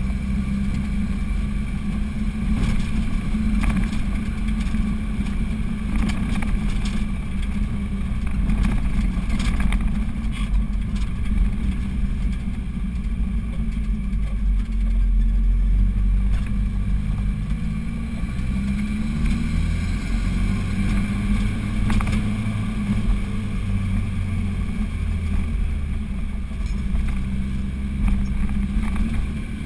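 Car engine running under load, heard from inside the cabin while climbing a steep, winding mountain road. Its pitch rises for a few seconds past the middle as the engine revs up, and there are a few knocks and rattles from the car over the road.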